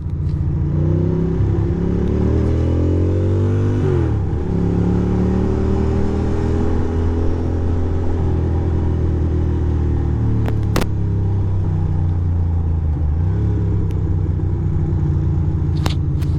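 2006 Ducati Monster 620's air-cooled V-twin engine under way: the revs climb for the first few seconds, drop sharply at a gear change about four seconds in, hold steady for a long stretch, then climb again near the end. Two brief sharp clicks are heard in the second half.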